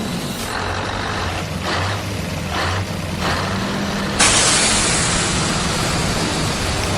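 Truck engine running low and steady, with a few short air hisses, then a loud air-brake hiss that starts about four seconds in and keeps on.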